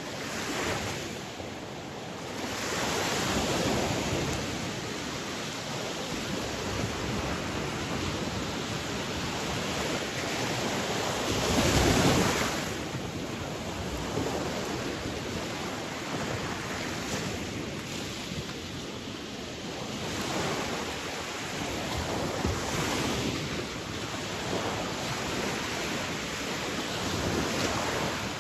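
Sea waves washing ashore, a continuous surf with slow swells that rise and fall every few seconds; the biggest wave breaks about twelve seconds in.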